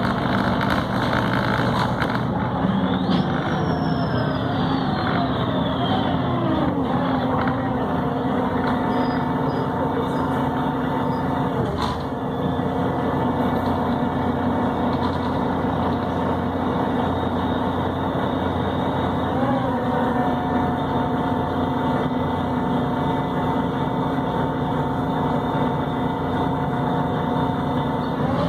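Volvo B7RLE city bus heard from on board while under way: its diesel engine and Voith automatic gearbox running, with tones that slide in pitch a few seconds in, then settle into a steady whine.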